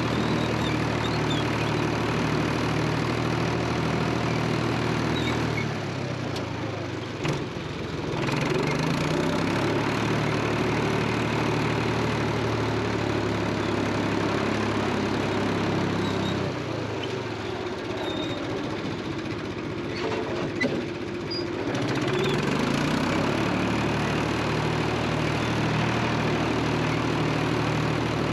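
Engine running at a steady speed. It drops to a lower, quieter note about six seconds in and again from about sixteen to twenty-two seconds in, then speeds back up each time.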